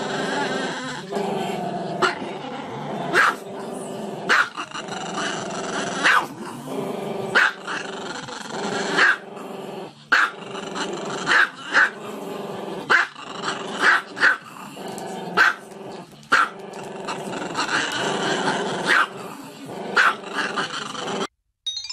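Small dog barking repeatedly, about one sharp bark a second, with continuous growling between the barks. The sound cuts off suddenly near the end.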